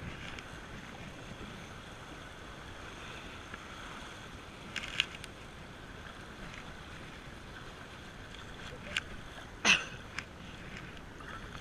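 Steady rush of moving river water with wind on the microphone, broken by a few short sharp sounds, the loudest about two seconds before the end.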